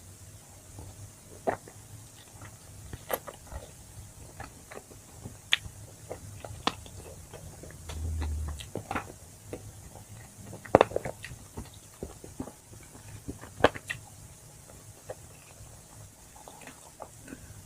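A person eating chicken wings: biting and chewing, with irregular short clicks and crunches. There is a short low rumble about eight seconds in.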